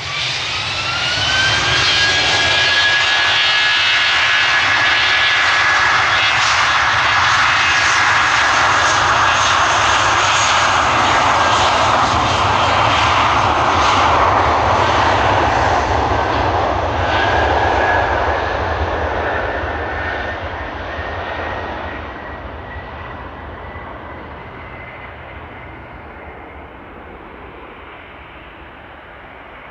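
British Airways jet airliner's engines spooling up to takeoff power, with a rising whine over the first couple of seconds. A loud steady roar follows through the takeoff roll and then fades away over the last third as the plane departs.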